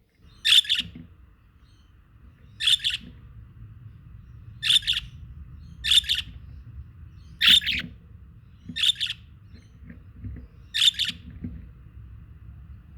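Budgerigars calling: seven short, sharp chirps spaced a second or two apart, over a faint low rumble.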